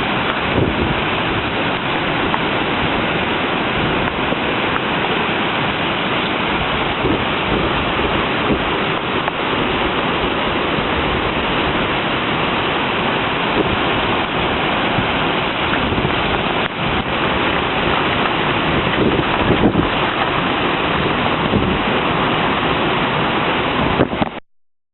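Typhoon wind and rain: a steady, loud rush of noise with gusts buffeting the microphone. It cuts off suddenly near the end.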